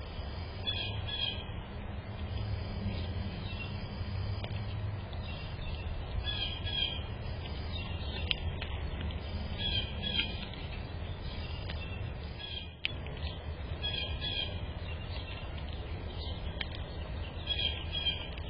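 A bird calling a short high phrase, repeated five times about every four seconds, over a steady low rumble.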